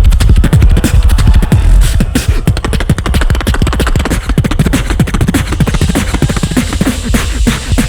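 Live beatboxing through a PA: fast, dense vocal percussion of kicks, snares and hi-hat clicks over heavy bass, in a steady driving rhythm.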